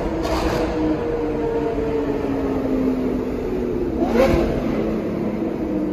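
Lamborghini supercar engines running hard in a road tunnel, the sound echoing off the walls. The engine note falls over the first few seconds, then about four seconds in there is a short, sharp burst with a quick rise in pitch as the cars come side by side.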